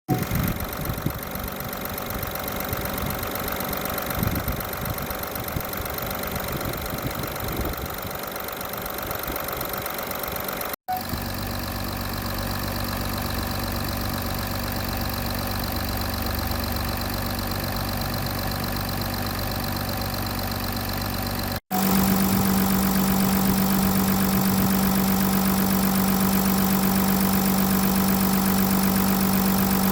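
Audi A6 C7's 3.0 TDI V6 turbo-diesel engine idling steadily. The sound cuts briefly about 11 and 22 seconds in, and after the second cut it is louder, with a strong steady low hum.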